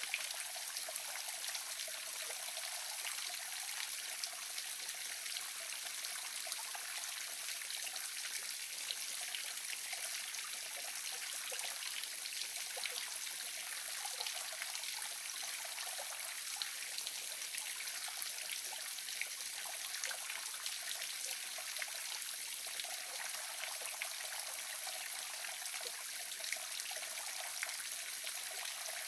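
Waterfall splashing steadily: a continuous hiss of falling water with many small splashes and drips, unchanging throughout.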